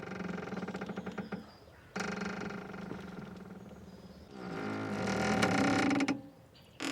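Boat's mooring rope squeaking under strain: long, drawn-out pitched creaks, three in a row with the third the loudest, and a fourth beginning near the end.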